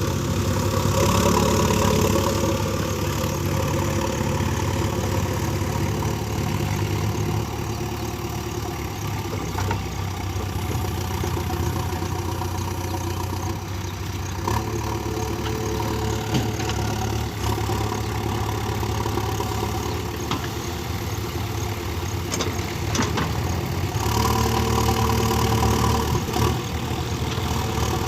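Heavy diesel engine of a tractor or backhoe running steadily, picking up revs briefly about a second in and again for a few seconds near the end.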